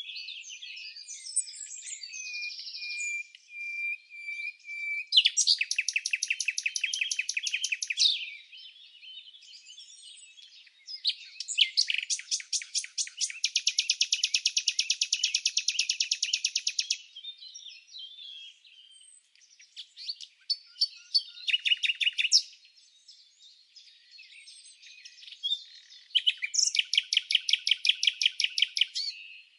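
Songbirds singing: several fast trills of rapidly repeated notes, each a few seconds long, about five seconds in, in the middle and near the end. Scattered chirps and a thin held whistle fill the gaps, the whistle early on.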